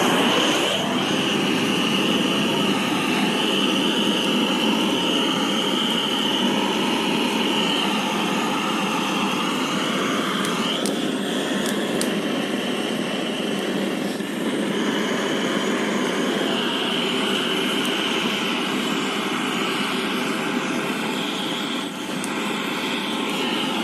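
Steady, jet-like roar from the equipment used to light a wood fire, with a high steady whistle running through it.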